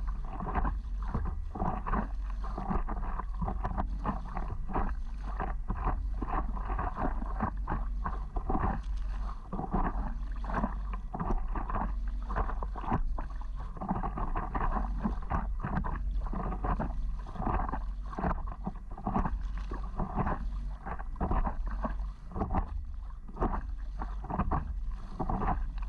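Water slapping and splashing against a paddleboard as it pushes through small waves, a continuous run of quick, irregular splashes.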